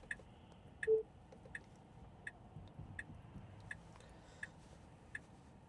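Tesla Model 3 turn-signal indicator ticking steadily, about three ticks every two seconds, as the car signals for a turn. A short beep about a second in.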